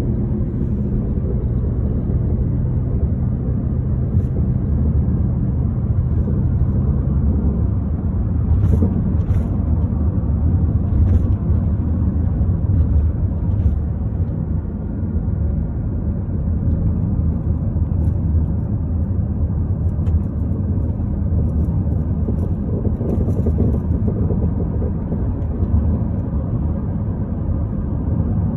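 Nissan Qashqai J10 running with a steady low rumble, and now and then a short sharp knock at uneven intervals: the unidentified knock the owner is trying to track down.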